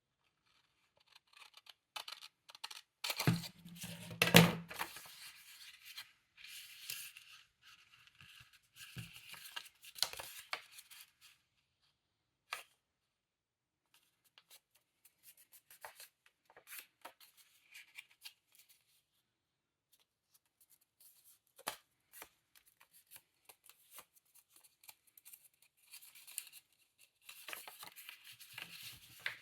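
Paper being handled and worked by hand in irregular bursts of rustling and scraping. The loudest stretch is about three to four seconds in.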